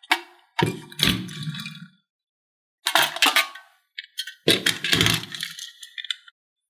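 Small diecast toy cars and plastic toy pieces clinking and clattering as they are handled and set down, in about five separate bursts with silence between them.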